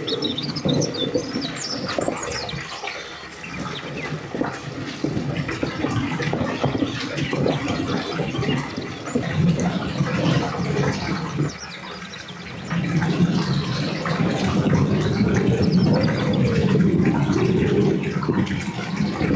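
Water running and splashing, breaking off briefly about twelve seconds in and then starting again louder. Birds chirp near the start.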